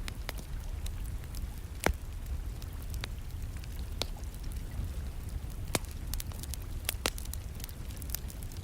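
Wood fire crackling, with irregular sharp pops and snaps, the loudest about two seconds in, over a steady low rumble and a soft hiss of rain.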